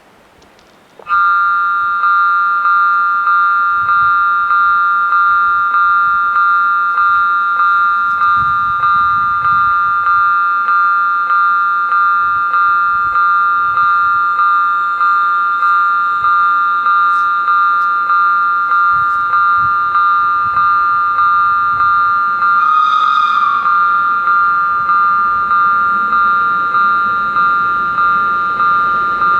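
Level crossing warning bells start about a second in and ring on in a steady, quick, even rhythm of repeated metallic strikes, warning that a train is approaching. A brief wavering higher sound rises over them about two-thirds of the way through.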